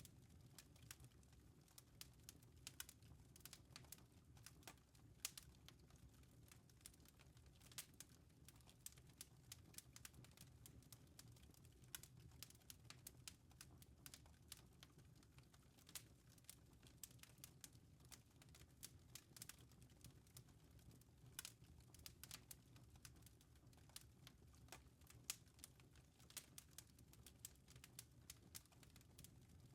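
Wood fire in a fireplace crackling softly: irregular sharp snaps and pops, with a louder snap about 25 seconds in, over a steady low rumble.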